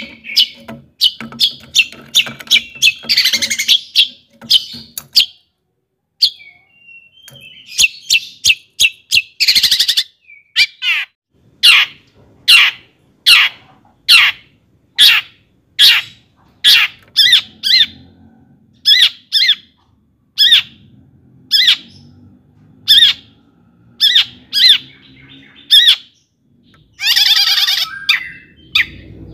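Long-tailed shrike (cendet) singing loudly: quick runs of chattering notes, then a long series of sharp separate calls about one a second, and a harsh scratchy burst near the end.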